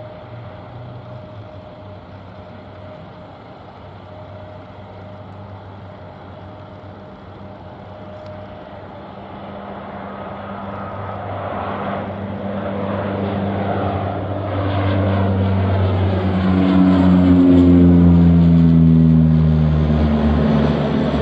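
An aircraft's engines passing close by: a distant steady hum grows louder from about halfway through, is loudest a few seconds before the end, and its engine tones drop in pitch as it goes past.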